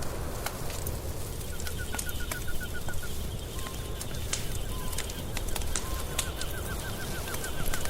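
Wood fire crackling with scattered sharp pops over a low rumble, layered with a bird calling in two runs of rapid repeated chirps, about eight a second, with a few short single whistles between the runs.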